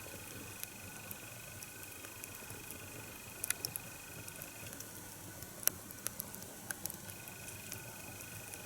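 Kindling just lit inside the split of an upright log, catching: faint, sparse crackles and pops over a low hiss.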